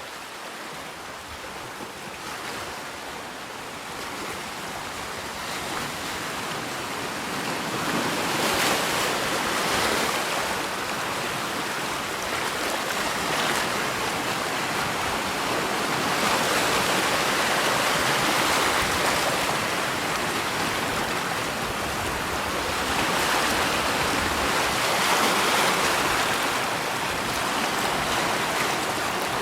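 Rushing water, a steady wash that fades in over the first several seconds and then rises and falls in slow swells every few seconds.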